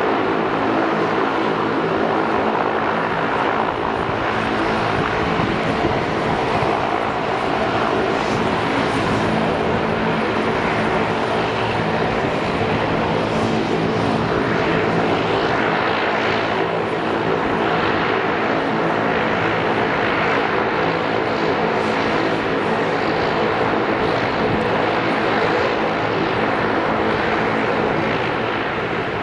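An ATR 72-202's twin Pratt & Whitney PW124B turboprop engines running at a steady setting: a stack of steady propeller tones over an even rushing noise.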